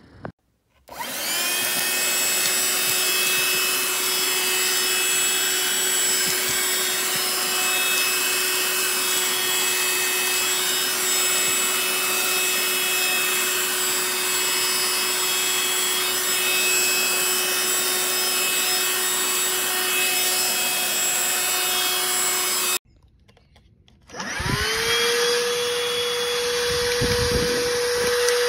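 Small cordless handheld vacuum motor switched on, spinning up to a steady whine with a rush of air, cutting off after about 22 seconds. It is switched on again a second or so later and runs at a higher pitch.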